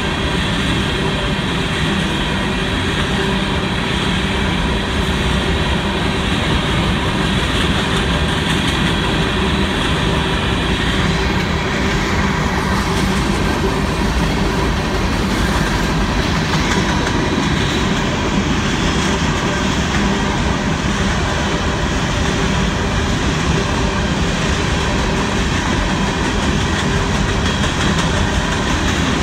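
Union Pacific freight train of hopper cars rolling steadily past a grade crossing: the continuous rumble and clatter of steel wheels on the rails.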